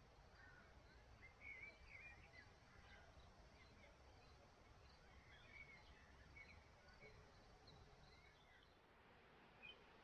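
Very quiet open-air ambience with scattered short bird chirps and calls, the clearest about a second and a half in, over a faint low rumble.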